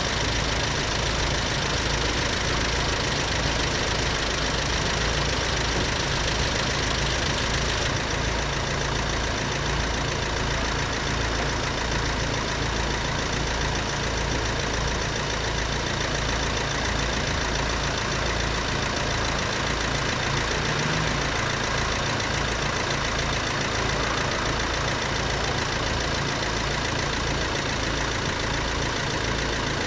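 A motor vehicle's engine idling steadily, with a low, regular throb in the second half.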